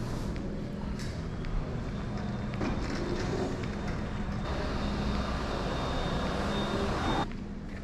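Steady vehicle-like rumble with a low hum, joined partway through by a thin high whine, dropping away abruptly shortly before the end.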